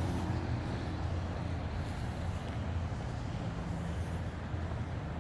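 Steady low hum of a vehicle engine running, over general traffic noise.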